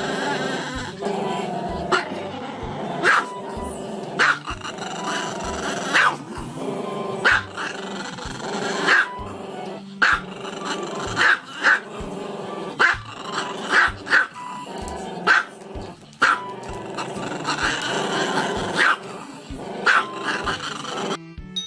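A small dog barking over and over with its head thrown back. There are sharp barks roughly every second or so, with its voice running on between them.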